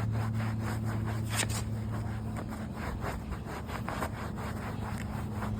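Microfiber towel rubbed briskly back and forth over fabric car flooring to wipe off fabric cleaner, at about three to four scrubbing strokes a second, over a steady low hum.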